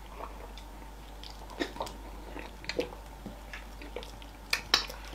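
Close-up eating sounds of fufu with okra soup: wet chewing and lip smacks, heard as scattered short clicks, the loudest cluster a little before the end.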